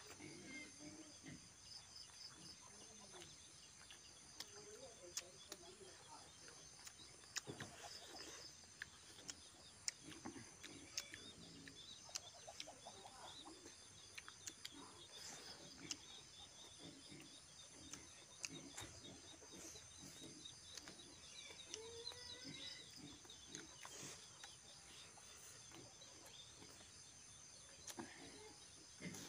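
Faint chewing and lip smacks from two people eating pork and rice by hand, with scattered mouth clicks. A faint steady chirping runs behind.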